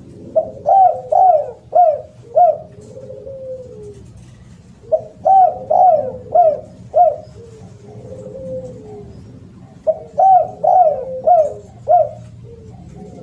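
Spotted dove (derkuku) cooing loudly: three phrases, about five seconds apart, each of four or five quick coos ending in a lower, drawn-out falling note.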